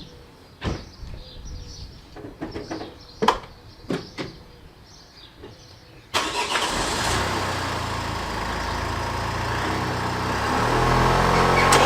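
A few clicks and knocks, then about six seconds in the MINI's 1.6 HDi DV6 four-cylinder diesel engine cranks and fires and keeps running, getting louder with rising revs near the end.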